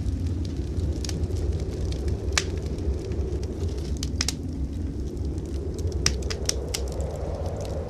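Fireplace wood fire crackling, with scattered sharp pops, over a steady low rumble.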